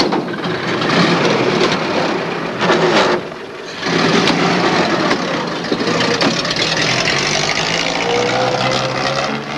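Vintage car engine running as the car pulls away along a gravel country track, with a brief drop in level about three seconds in.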